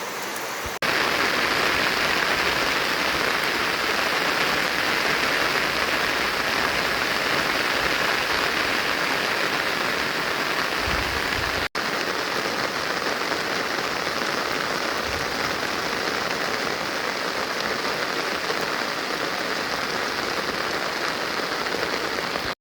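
Steady rain falling, an even hiss throughout. It gets louder abruptly under a second in and drops out for an instant near the middle.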